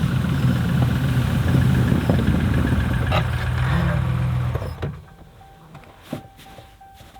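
An engine idling steadily, ending abruptly a little over four and a half seconds in; after that only a few light knocks and clicks over a quiet background.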